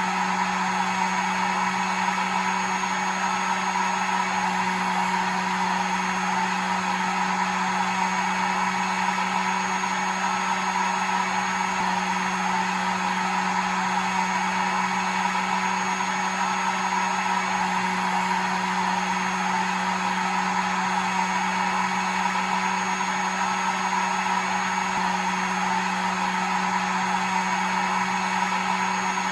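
Hair dryer running steadily: a continuous airy fan rush with a low, even motor hum underneath, unchanging throughout.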